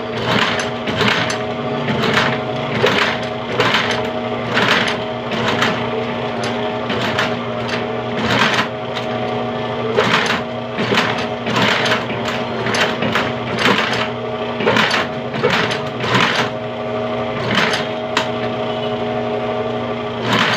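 Sewing machine stitching a shoe: a steady motor hum under sharp, regular needle strokes, about two a second.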